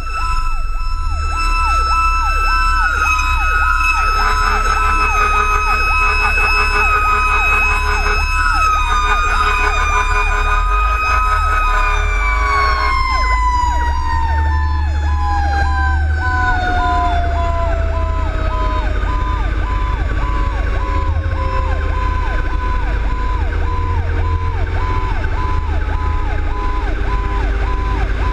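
Fire engine sirens: one siren on a fast repeating yelp, together with a second siren holding a steady high tone that starts winding down about twelve seconds in, falling slowly in pitch. Underneath is a heavy low rumble from the truck.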